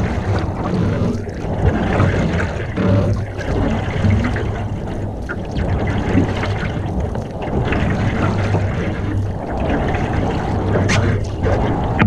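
Water splashing and trickling around a canoe as it is paddled, with a low rumble of wind on the microphone.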